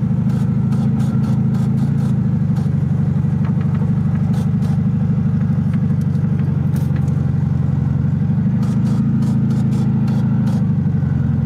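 Volkswagen Super Beetle's air-cooled flat-four engine running steadily as the car is driven slowly. This is one of its first runs after some thirty years of sitting. Light clicks and rattles come and go over the engine note.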